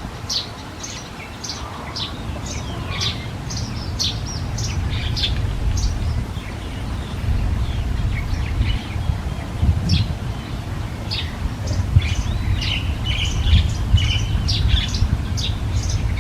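Small birds chirping: many short, high chirps in quick succession, over a steady low rumble.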